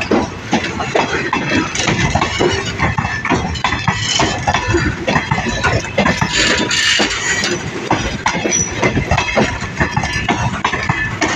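Indian Railways passenger coaches rolling past close by, their wheels clattering steadily over the rail joints.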